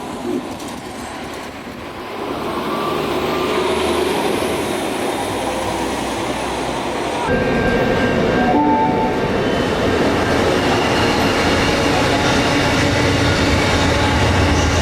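A train running on rails, with a continuous rumble that gets louder about two seconds in and again about seven seconds in, with steady tones over it.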